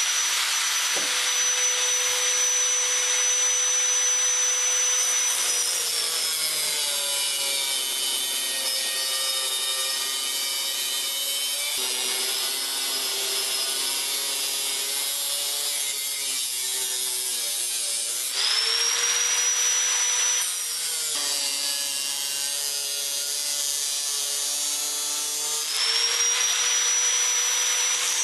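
Small angle grinder with a cut-off wheel cutting metal threads. Its high whine holds steady while it spins free, then drops in pitch twice for several seconds as the wheel bites into the metal under load, rising back to full speed in between and near the end.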